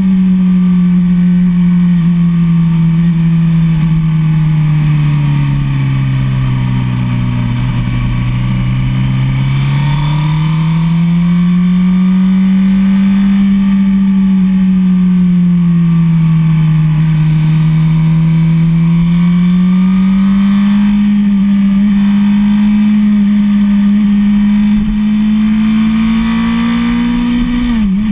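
Sport motorcycle's inline-four engine running at road speed, its pitch slowly falling and rising again several times as the throttle is eased and opened, over steady wind rush. Near the end the pitch dips sharply and comes straight back.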